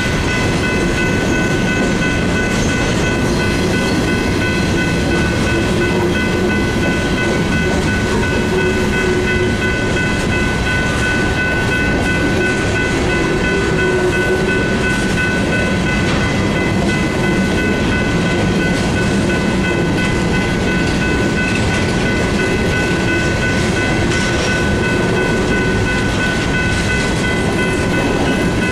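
Freight train of empty covered hopper grain cars rolling past a grade crossing, a steady rumble and wheel clatter. A General Signals Type 3 electronic crossing bell rings steadily over it at an unchanging pitch.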